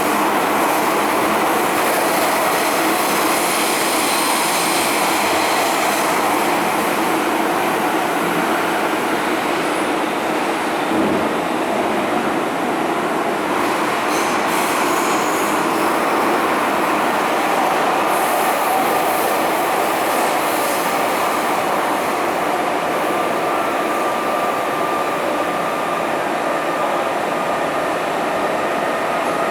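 MTR M-Train metro train running, heard from inside the passenger car: a steady rumble of wheels and running gear, with some wheel squeal. A thin steady tone comes in about two-thirds of the way through.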